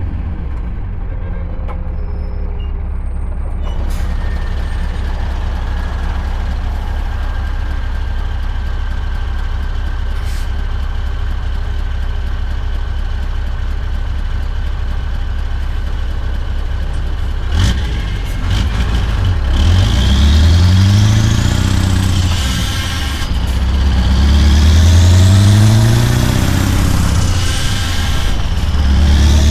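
Scania V8 truck engine running steadily, then a short sharp click just before it pulls away. Its pitch then rises, drops back and rises again several times as it accelerates through the gears.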